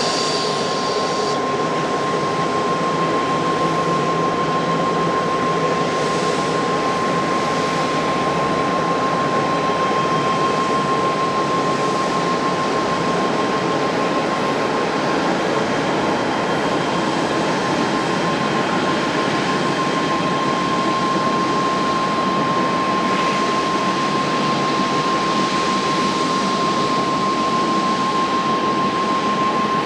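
Jet airliner engines running steadily: an even rush of jet noise with a constant high whine that holds without rising or falling.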